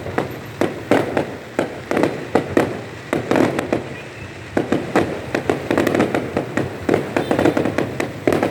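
Fireworks display: a rapid, irregular barrage of shell bursts and crackling bangs, several a second, with no gaps.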